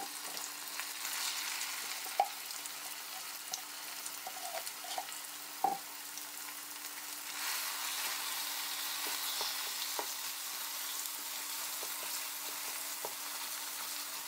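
Curry paste sizzling as it is scooped into oil heated to about 160 °C in a pot, with a few short clicks of a utensil against the pot. The sizzle grows louder about halfway through.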